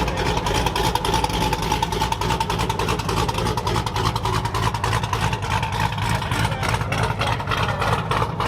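A vehicle engine running close by, its exhaust giving a steady, rapid, even pulse.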